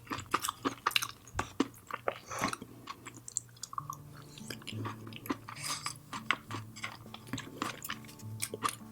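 Close-miked eating sounds: a person chewing food, with many irregular wet clicks and smacks of the mouth, over quiet background music.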